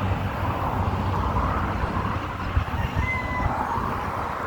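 Rooster crowing in the background, its calls rising and falling in pitch, over a steady low rumble.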